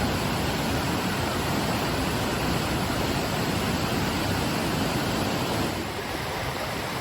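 Floodwater of a creek swollen by hurricane rain, rushing in a steady roar of whitewater, a little softer for the last second or so.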